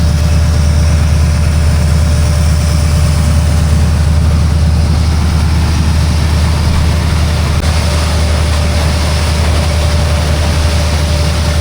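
Motorboat engine running steadily under way, a loud low drone with a rushing hiss of wind and water over it.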